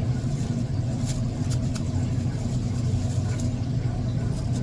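A steady low motor hum, like an engine running, with a few faint light clicks about a second in.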